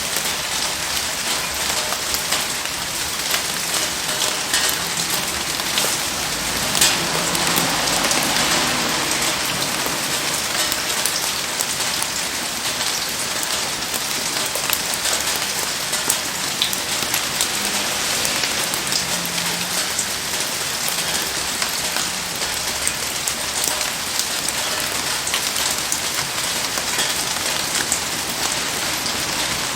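Heavy rain falling steadily, a dense hiss of many small drop ticks. A single sharper crack stands out about seven seconds in.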